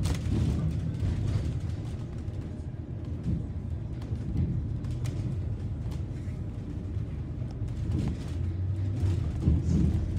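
City bus engine running with a steady low rumble and road noise as the bus drives along, the engine note strengthening slightly near the end.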